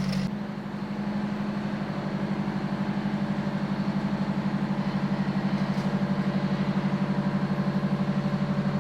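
Tiger I tank's Maybach V12 petrol engine idling steadily, with a fast, even pulse.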